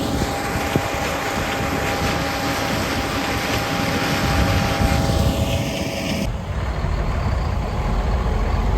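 A heavy farm vehicle's engine running steadily with a loud hiss of machine noise over it. About six seconds in, the hiss cuts away abruptly and a deeper, heavier rumble takes over.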